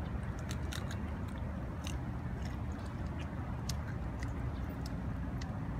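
Irregular crisp clicks and crackles of someone chewing a crunchy snack close to the microphone, over a steady low rumble.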